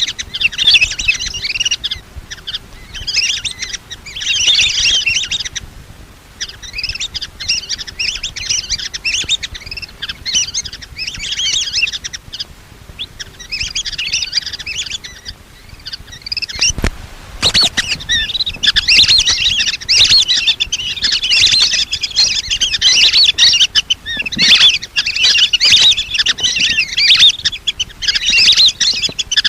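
A flock of lesser whistling ducks giving rapid, high whistling calls in overlapping bursts with short lulls, the calling used as a lure to draw the birds in. A single knock about seventeen seconds in.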